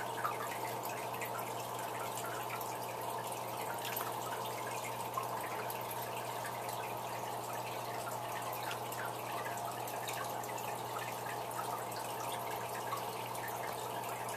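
Water steadily trickling and splashing from the hang-on-back aquarium filters (an Emperor 400 with spray-driven bio-wheels and a Fluval C4) into the tank, with small drips and a low steady hum.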